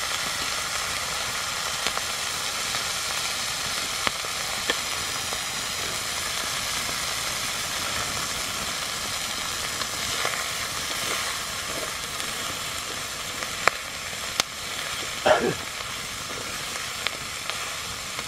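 Green grasshoppers sizzling steadily as they fry in a wok over a wood fire, stirred with long chopsticks that give scattered sharp clicks and taps against the pan.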